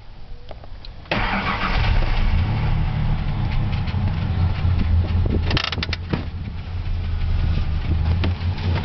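1997 Ford Ranger engine catching about a second in and then running, with a short cluster of sharp clicks about five and a half seconds in. The owner says it runs rough, as if choked, with misfire or backfire, and is unsure whether it is short of air, fuel or spark.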